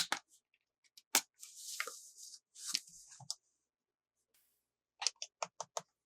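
Handling and opening toy packaging: sharp clicks and crisp plastic rustling, then a quick run of five clicks near the end.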